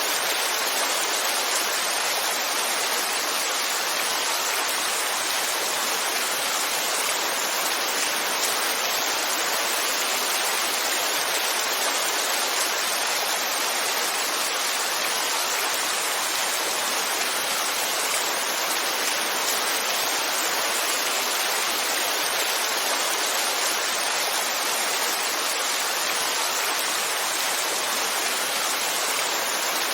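Heavy rain falling in a steady, unbroken hiss with no single drops or thunder standing out.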